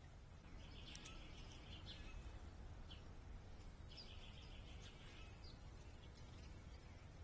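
Faint songbird song: a buzzy trilled phrase about a second long, sung twice, with a few short high chips between, over a steady low background rumble.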